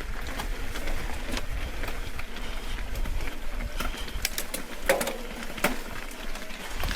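Mountain bike being ridden over a wet, rocky trail: a steady rush of wind and tyre noise with scattered clicks and knocks from the bike, the loudest a knock about five seconds in.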